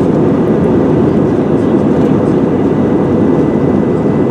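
Steady cabin noise inside an Airbus A320 airliner in descent: engine and airflow noise heard as an even low rumble, with a faint steady high tone.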